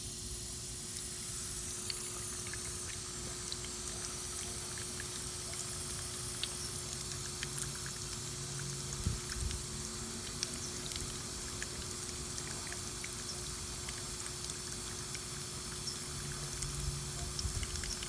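Water running steadily from a garden hose with the flow turned up, an even hiss and splash, with a faint steady hum beneath it and a few small clicks.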